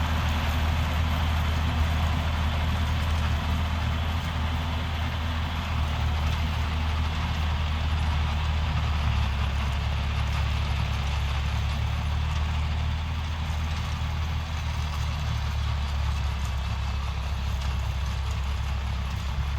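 John Deere 5310 tractor's three-cylinder diesel engine running steadily with a deep, even drone.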